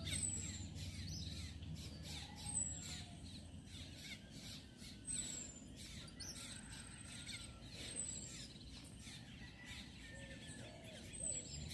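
Birds chirping and calling outdoors, with short high falling whistles every second or two over a faint background.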